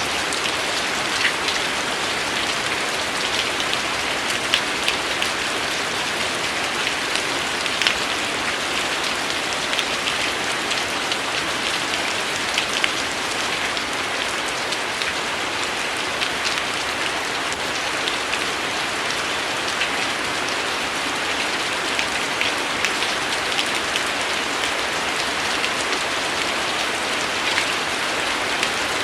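Steady rain falling, with many close individual drops ticking sharply through a constant hiss.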